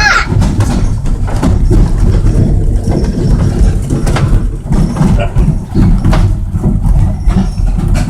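Steady low rumble and irregular knocks of a moving narrow-gauge passenger train, heard from aboard the coach.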